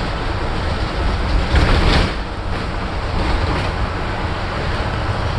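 Cabin noise of a 2010 Blue Bird bus on the move: steady engine and road rumble. A brief louder rattle or bump comes about one and a half to two seconds in.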